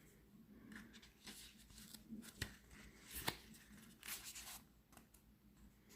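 Faint paper rustling and handling as a card deck's guidebook is picked up and its pages are turned, with two light clicks or taps in the middle.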